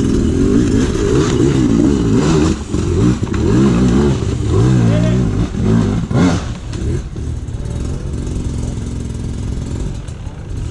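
Dirt bike engine revving hard and unevenly as the rider works through a hard enduro obstacle, its pitch rising and falling repeatedly. About seven seconds in it drops back to a quieter, steadier run.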